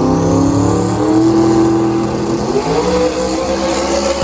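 Drag-racing car engine accelerating hard at full throttle. Its pitch climbs, drops briefly just over two seconds in, then climbs again, as at an upshift.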